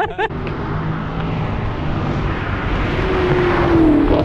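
Chevrolet Camaro SS's 6.2-litre V8 running as the car moves close by, getting louder toward the end, its note dipping slightly as it draws level.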